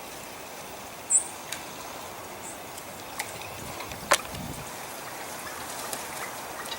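A short, high bird chirp about a second in, then a few faint ticks and one sharp tap about four seconds in, over a steady outdoor hiss.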